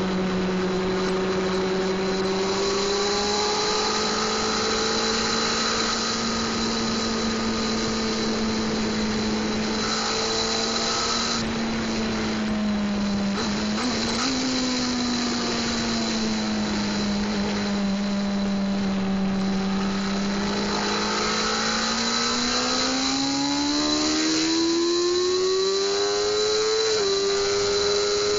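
600 cc sport bike's inline-four engine running hard at a fairly steady speed, its pitch wavering slowly. Near the end it climbs steadily for several seconds and then holds high. A thin high whine sits steadily over it.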